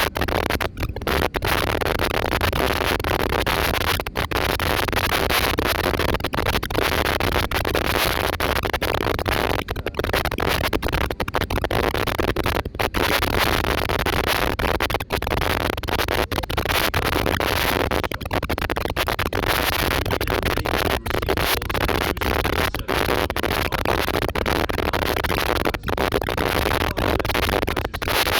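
Steady loud rushing of aircraft noise, broken by many brief dropouts every second or so.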